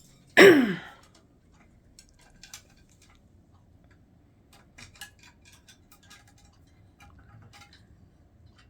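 A short, loud voice sound sliding down in pitch near the start, then light, scattered ticks and clicks in small clusters, typical of an African grey parrot's beak and claws working on a toy.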